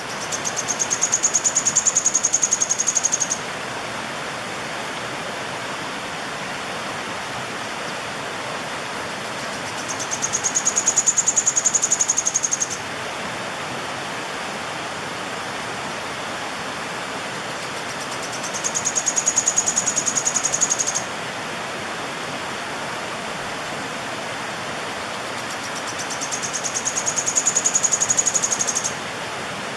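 Sharp-tailed streamcreeper (João-porca) singing: a high, rapid trill of about three seconds, given four times about eight seconds apart, over the steady rush of running water.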